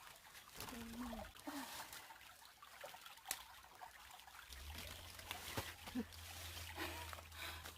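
Small creek trickling faintly, with a few sharp clicks and a low steady hum that comes in about halfway through.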